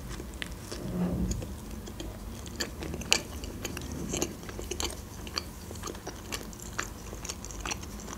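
Close-up chewing of a homemade mini pizza: a bite at the start, then many small, sharp crunchy clicks of the crust being chewed.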